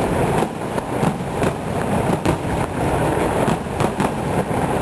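Fireworks going off in a rapid, irregular barrage of sharp cracks and bangs over a constant rumble.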